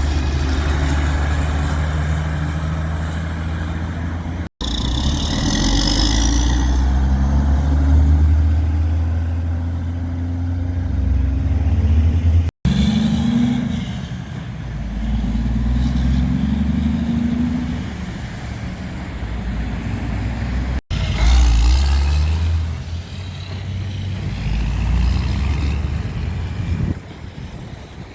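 Heavy trucks' engines running as they drive past, in four short clips with abrupt cuts between them. In the second clip the engine note rises and falls as a truck pulls away.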